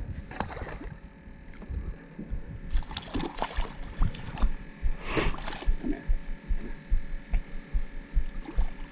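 Irregular knocks and water splashing on a small boat, with one louder, brief splash about five seconds in.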